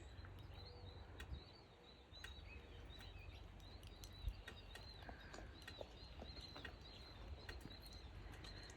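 Faint birdsong: a run of short, arched chirps repeating every fraction of a second, with scattered soft clicks and a brief low thump about four seconds in.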